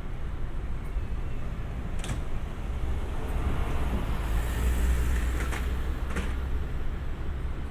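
Freight-yard sound around a standing locomotive: a steady low rumble that swells midway, with three sharp metallic clanks and a brief hiss.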